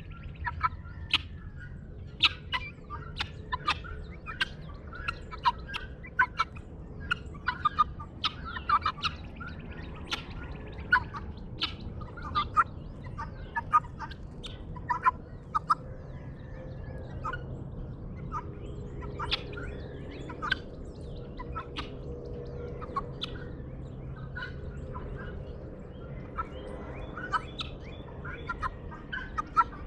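Guineafowl calling in a dawn chorus: many short, sharp calls repeated over and over, mixed with other birds chirping, over a faint low steady hum.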